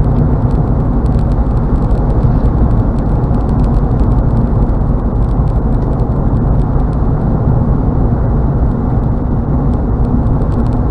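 Steady road noise heard inside a car's cabin while cruising on a highway: tyre and engine noise, a low even rumble with little high end.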